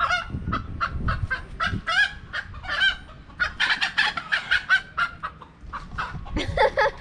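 Chickens clucking and squawking: a rapid run of short, pitched calls, several a second, thickest in the middle stretch.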